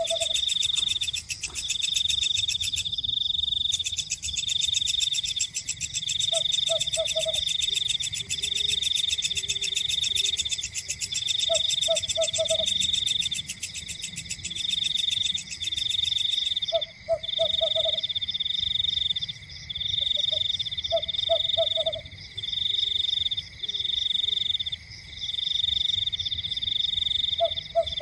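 Night chorus of insects trilling steadily in rapid bursts about a second long, over a continuous thin high whine. A frog croaks in short runs of three or four notes every few seconds.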